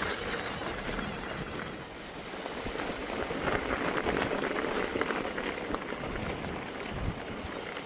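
Mountain bike rolling over a snowy trail: tyres crunching on snow and the bike rattling over bumps in a steady run of small clicks.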